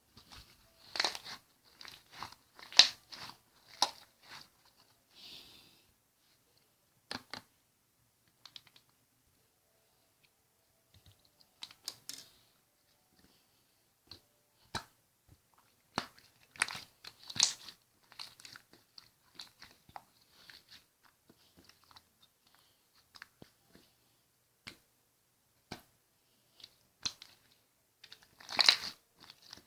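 Slime being played with by hand, giving irregular crackling clicks and pops in clusters, with short quiet gaps between them.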